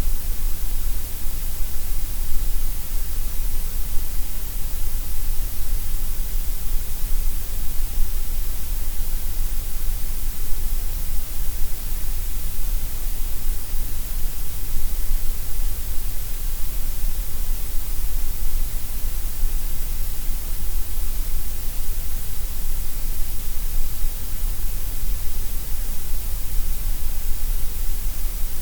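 Synthetic gray noise: a steady, unchanging hiss, heavier in the deep bass and the high treble than in the middle range.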